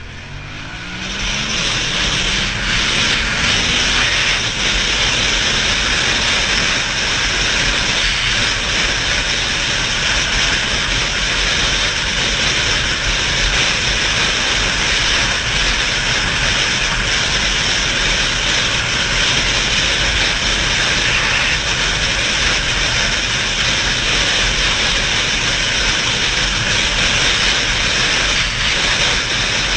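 Motorcycle accelerating, its engine note rising over the first few seconds, then a steady loud rush of wind and engine noise at speed.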